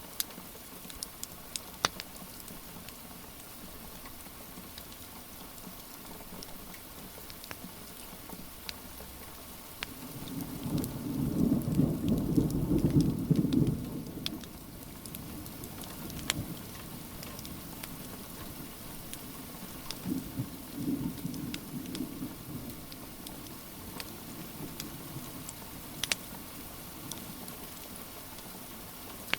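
Steady rain with scattered sharp crackles and pops from a wood fire. A roll of thunder rumbles low and loud from about ten seconds in, lasting some four seconds, with a fainter rumble around twenty seconds.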